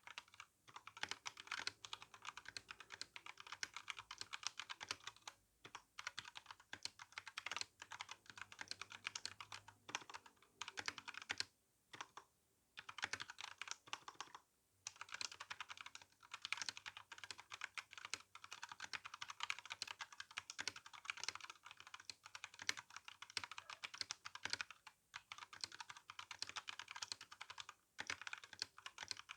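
Typing on an RK61 mechanical keyboard with tactile brown switches and GSA keycaps: a fast, continuous clatter of keystrokes, broken by a few brief pauses.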